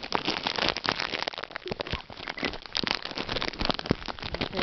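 A packaging bag being handled and pulled open, crinkling in a dense run of small crackles.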